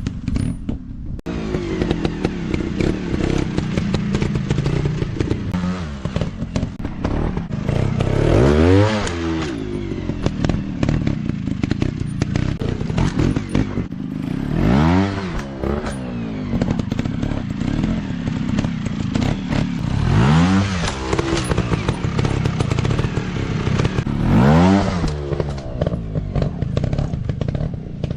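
Off-road dirt bike engines running, the revs swelling and dropping back four times, with clattering and scraping along the way.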